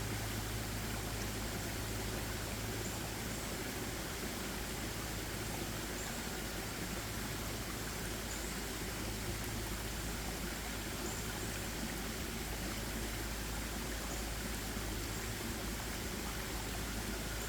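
A stream flowing steadily, an even rushing of water with no change in level.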